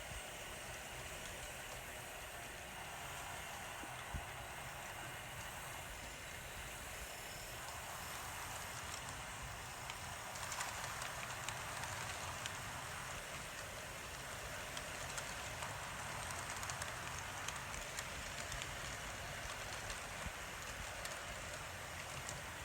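Model train running along the layout's track: a steady whir of wheels and motor with scattered small clicks.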